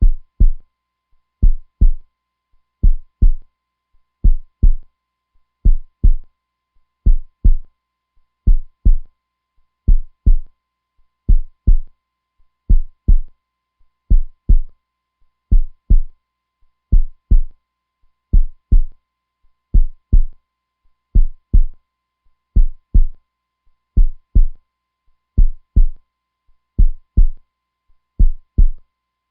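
Heartbeat, a steady lub-dub: pairs of deep thumps repeating evenly about every one and a half seconds, around 40 beats a minute.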